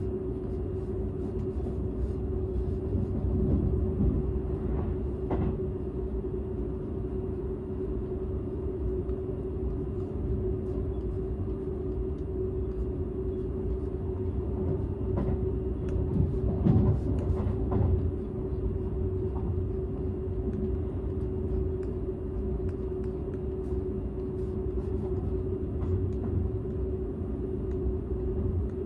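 Interior running noise of a Seibu 001 series Laview limited express, heard inside its unpowered driving trailer car: a steady low rumble of wheels on rail with a constant hum. The rumble swells louder about four seconds in and again around sixteen to eighteen seconds in.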